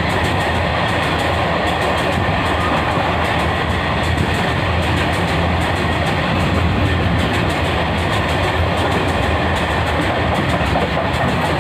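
Freight train wagons rolling past at speed: a steady, loud rumble with wheel clatter over the rail joints.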